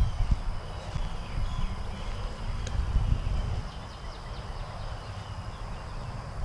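Footsteps walking along a woodland trail, heard as uneven low thuds with rumble on the microphone. Faint short bird chirps sound high above them.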